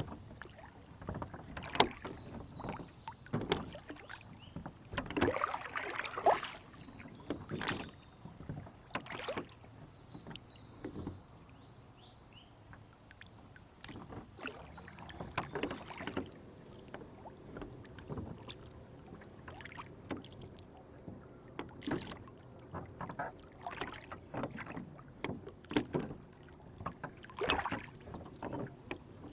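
Lake water splashing and lapping against a small rowboat in irregular bursts every second or two, with faint bird chirps in the background.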